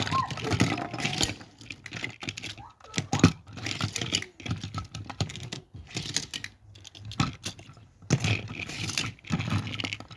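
Toy trains being handled: an irregular run of plastic clicks, knocks and clatter as the pieces are picked up, set down and knocked together.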